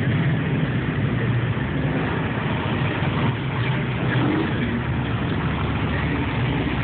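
Car engines running in a steady low rumble.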